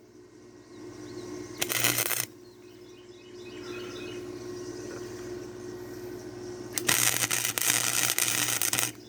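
Wire-feed arc welder welding a metal bedframe: a short burst of crackling arc about two seconds in, then a longer, steady crackling weld of about two seconds near the end. A steady low hum runs underneath, and insects chirp faintly between the welds.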